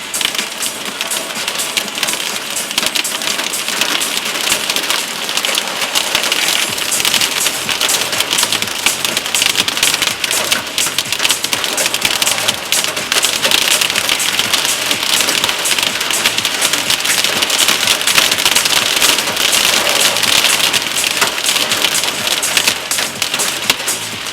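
Heavy summer rain mixed with hail pelting down, a dense, rapid clatter of countless small impacts that holds steady throughout.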